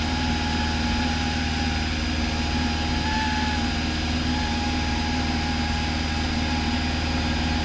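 Cessna 172's piston engine and propeller droning steadily in cruise, heard from inside the cabin, with a faint wavering tone held above it.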